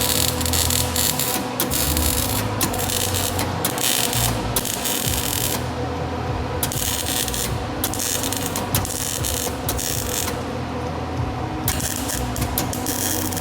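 Welding arc crackling and sizzling steadily, stopping briefly twice between beads, about six seconds in and again near eleven seconds.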